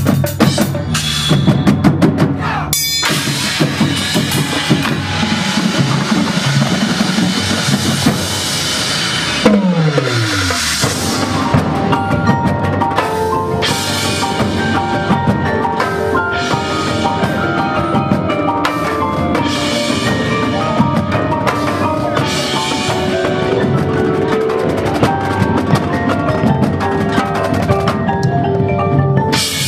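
Marching band music driven by a drumline of snare and bass drums, with held pitched notes over it and a falling pitch glide about ten seconds in.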